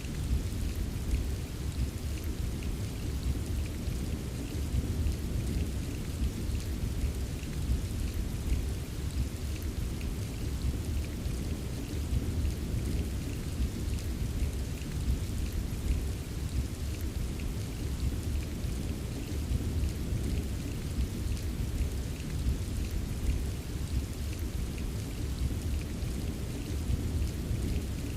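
Steady rain with small scattered drop taps over a continuous deep, low rumble of distant thunder.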